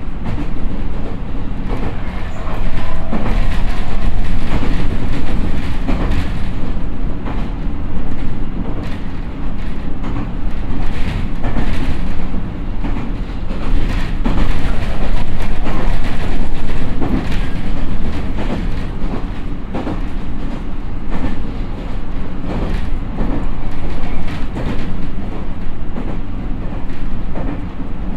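Interior running noise of a JR East E127-0 series electric train, heard in its motor car: a steady low rumble with the wheels clicking irregularly over rail joints. The noise swells louder a few seconds in and again around the middle.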